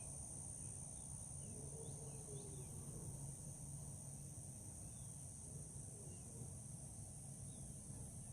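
Steady high-pitched chorus of crickets or similar insects, with a few faint scattered bird chirps over a low, steady background rumble.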